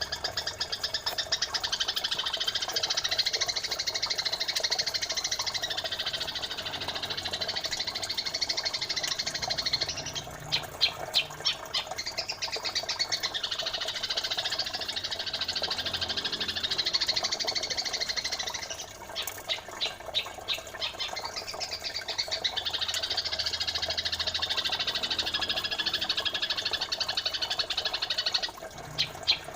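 Recorded songbird tutor track of pied triller and Eurasian tree sparrow song: dense, fast, high chattering, broken about every nine seconds by a run of rapid clipped notes. The pattern repeats like a loop.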